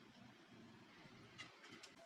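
Near silence: faint room tone with a few light clicks about one and a half seconds in.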